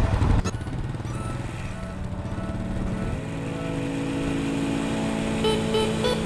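Small motorcycle engine running steadily under load, its rear wheel turning a water pump. The pitch steps up about three seconds in and again near the end, under background music.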